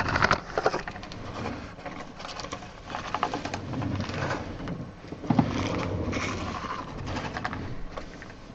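Rustling and light crackling clicks of trading cards, foil pack wrappers and plastic card sleeves being handled, coming in irregular bunches.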